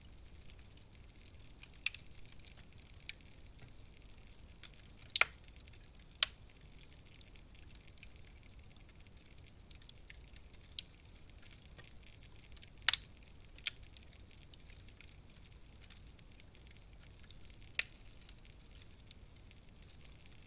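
Wood fire crackling in a fireplace: a faint steady hiss with scattered sharp pops at irregular intervals, a few of them doubled.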